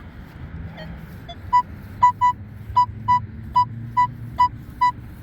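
Metal detector giving repeated short beeps, all at one pitch, about two or three a second, as it sounds off on buried metal targets. The beeps start about a second and a half in.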